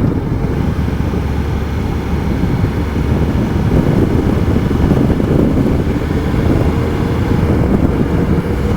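2015 Triumph Tiger Explorer 1200's three-cylinder engine running at a steady cruise, mixed with wind rush over the rider's helmet microphone.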